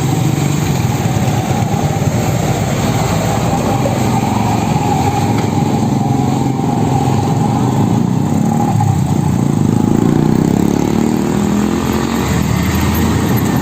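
Motor vehicle engines running in road traffic, with one engine growing louder and rising a little in pitch past the middle.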